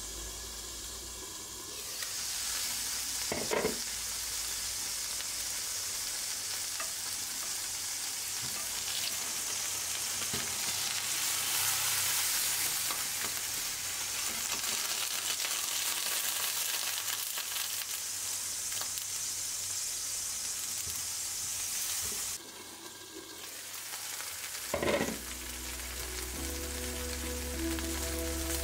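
Burger patties frying in a hot pan, a steady hiss of sizzling fat, with two short knocks of a utensil on the pan. Near the end the sizzle quietens and light background music comes in.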